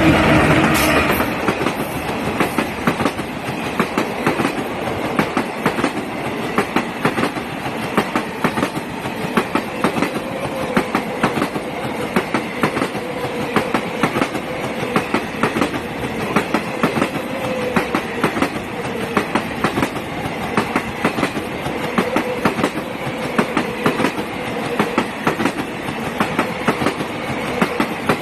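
Train coaches rolling past, wheels clattering rapidly and steadily over the rail joints, loudest in the first second or so, with a faint steady whine under the clatter.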